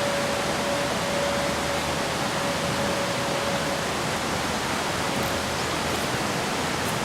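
A steady, even rushing noise, with a faint steady tone that fades out about five and a half seconds in.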